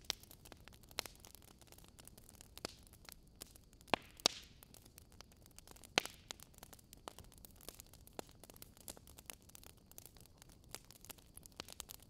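Wood fire crackling: scattered sharp pops and snaps over a faint steady hiss, the loudest pops about four and six seconds in.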